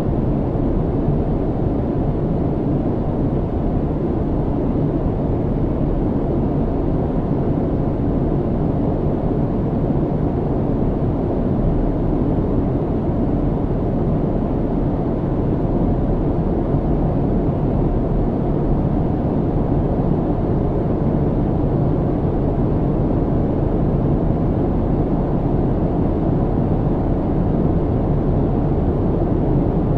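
Steady low rumble of jet airliner cabin noise in flight, engine and airflow noise heard from inside the cabin, with most of the sound deep and little hiss on top.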